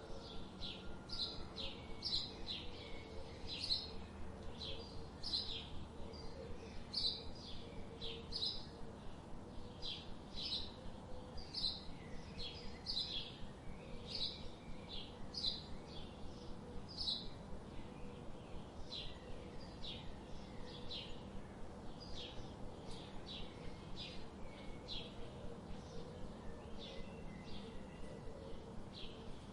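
Small birds chirping: short, high chirps repeated over and over, more than one a second, over a faint steady low hum.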